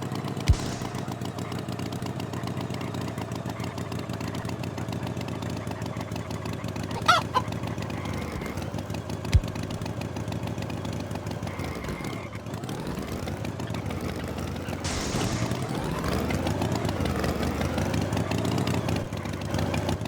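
Chickens clucking over a steady low hum, with a few sharp clicks and a short rising call about a third of the way in.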